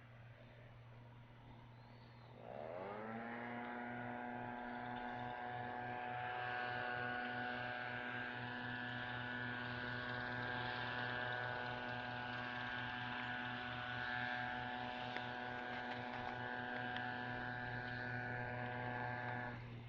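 A motor spins up about two and a half seconds in, running at a steady pitch with a low hum beneath it, then cuts off abruptly near the end.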